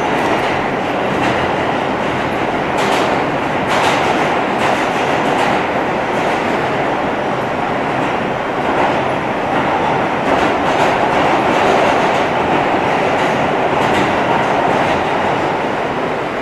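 Running noise inside an R160 subway car in motion: a steady rumble of wheels on the track, with scattered clicks as the wheels pass rail joints.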